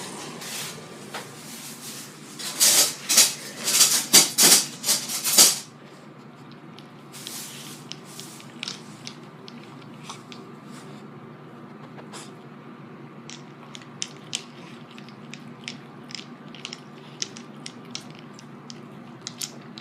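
Dogs crunching ice cubes in their teeth: a loud run of about eight crunching bites a couple of seconds in, then scattered quieter clicks and crunches.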